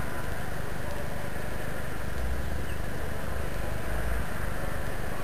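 Steady urban background noise: a constant hiss and hum with a low rumble that swells and fades, like distant traffic or wind on the microphone.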